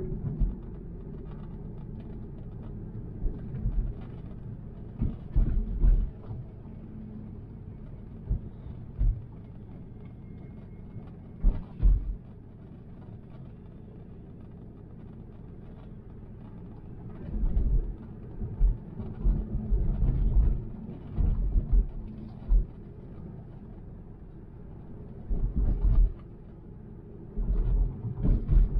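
Road and tyre noise of an electric car heard from inside the cabin: a steady low rumble with irregular heavy low thumps, in clusters about five, eleven, seventeen to twenty-three and twenty-five seconds in.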